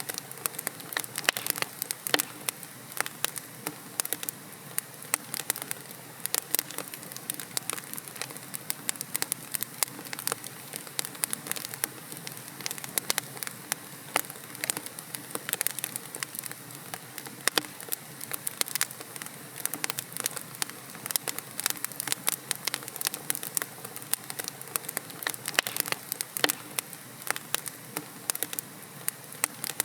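Wood fire in a fireplace crackling, with many irregular sharp pops and snaps over a soft steady hiss of burning logs.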